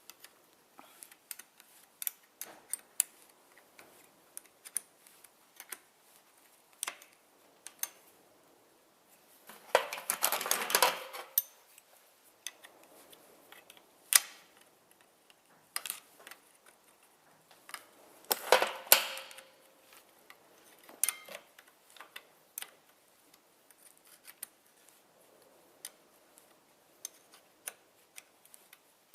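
Scattered metallic clicks and clinks of hand tools and steel gearbox parts being handled during manual gearbox reassembly, as the gear selectors are locked in place. Two longer bursts of clattering come about ten seconds in and again near nineteen seconds, with a single sharp click between them.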